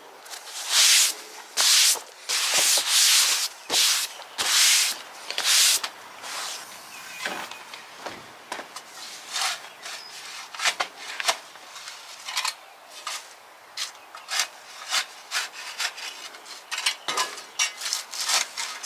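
Repeated abrasive rubbing strokes, like scrubbing or sanding: about six long strokes in the first six seconds, then shorter, quicker ones.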